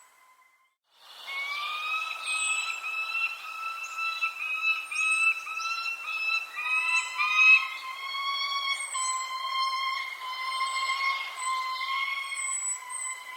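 Birds singing in short, high, falling chirps over a steady layered tone that holds with small breaks. The sound drops out for about a second at the start, then comes back.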